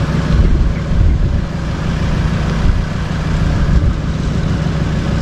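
Car engine running steadily with a low rumble and road noise, with a few louder low surges in the first second or so.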